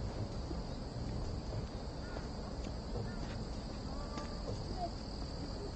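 Steady high-pitched drone of insects in a summer forest, with soft irregular footsteps and rustle from someone walking downhill.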